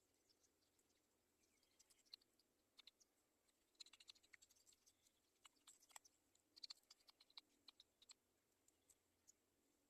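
Faint, irregular sharp clicks and ticks, bunched together around the middle.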